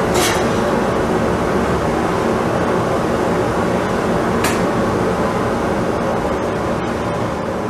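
Woodworking shop machine running steadily with a steady hum, easing off slightly near the end, and two sharp clicks, one right at the start and one about four and a half seconds in.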